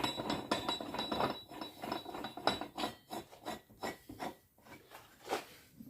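Metal scraping and light clinks as a hold-down clamp is screwed down onto the wheel on a manual tyre changer: a run of short, irregular clicks and rasps that thin out toward the end.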